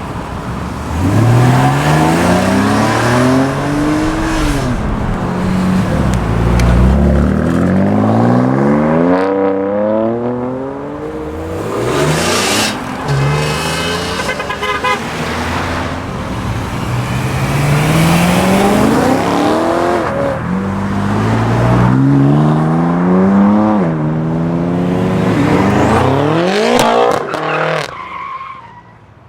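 Performance car engines revving hard under acceleration, their pitch climbing again and again and dropping back at each gearchange. A harsh high-pitched burst about twelve seconds in, and the engine sound falls away near the end.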